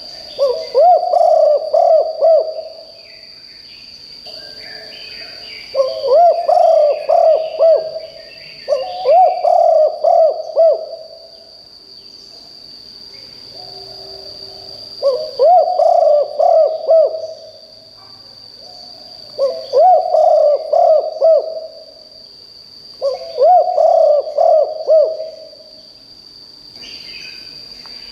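Spotted dove cooing: six phrases of low, repeated coo notes, each about two to three seconds long, a few seconds apart. A steady high-pitched whine runs under them throughout, and other small birds chirp faintly now and then.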